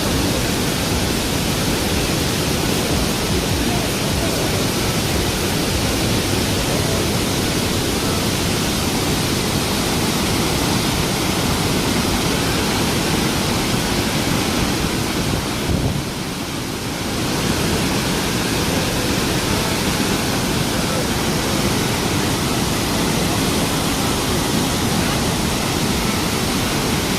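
Iguazu Falls' water pouring down, a loud, steady rush of falling water that drops briefly about sixteen seconds in.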